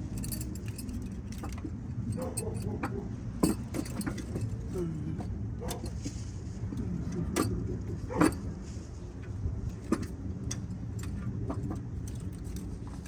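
Scattered metallic clinks and knocks of hand tools and engine parts being handled during cylinder head removal, over a steady low hum.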